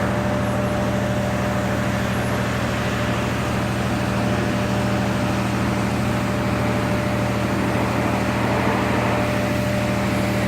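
Truck-wash machinery running steadily: a constant low mechanical hum with a thin steady higher tone over an even hiss.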